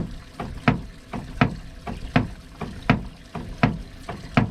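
Steady rhythmic thumping on the boat's hull, strong low thumps about three every two seconds with lighter knocks between. This is striper-fishing 'thumping', done to draw striped bass in under the boat.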